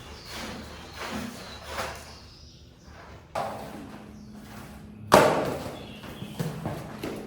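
Rhythmic scraping strokes on a wet rug, about one every 0.7 s. About three seconds in, background music with a steady low drone enters, and it lands a loud deep drum hit about five seconds in.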